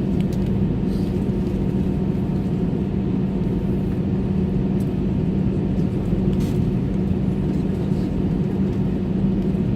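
Steady cabin drone of an Airbus A320 on the ground just after landing: engine and airflow noise with a constant low hum, holding level.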